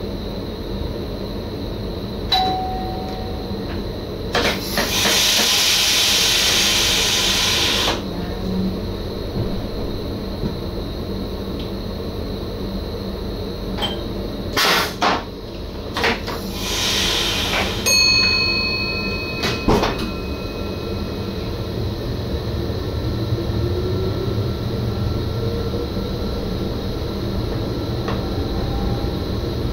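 In the driver's cab of an NS SGM Sprinter electric train, a steady running rumble with two bursts of air hiss, a few sharp clicks, and a ding whose ringing tones hang on. Later a faint whine rises in pitch.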